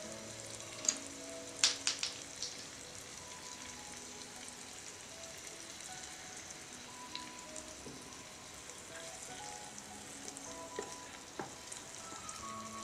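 Food sizzling steadily in a tiny steel frying pan as spice powder is added and stirred in with a small spoon. A few sharp clicks come about one to two and a half seconds in.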